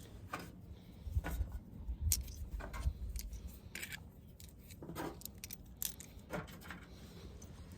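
Small metal mower parts and hand tools clinking and clicking as they are picked up and handled, a dozen or so light, scattered clicks with some low handling rumble in the first few seconds.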